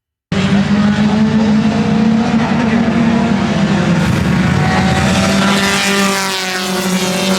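Race car engine running hard at high revs, starting abruptly and holding a steady, loud note with a slight dip in pitch midway.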